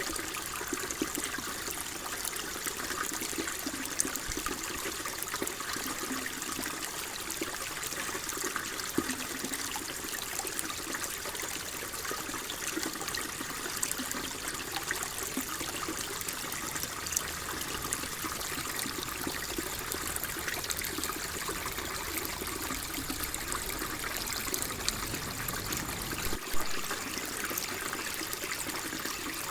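Water flowing and trickling steadily, a continuous splashy babble with a few small droplet splashes.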